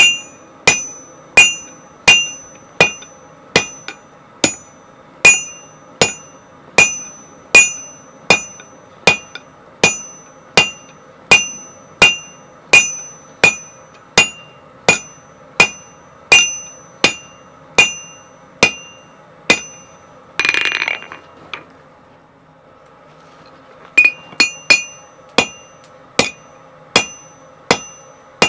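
Blacksmith's hammer striking hot 1060 tool steel on an anvil in a steady rhythm, about one and a half blows a second, each blow with a bright ring from the anvil. About two-thirds of the way through there is a brief rasping noise, then the hammering stops for a few seconds and starts again.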